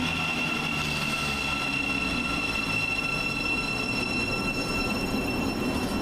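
Thameslink Class 700 electric multiple unit braking into the station: a steady high-pitched squeal, with a lower electric motor whine stepping down in pitch over the first few seconds. The squeal dies away near the end.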